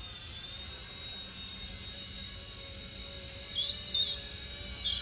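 Small electric RC helicopter (RC-ERA C184 MD500) in flight: a steady high-pitched motor whine over a low rotor hum. A few short chirps come in about three and a half seconds in and again at the end.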